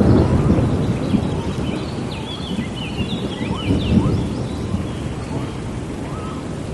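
Rainforest thunderstorm: steady rain under a low rolling rumble of thunder, loudest at the start and swelling again about four seconds in. A few short high chirps sound in the middle.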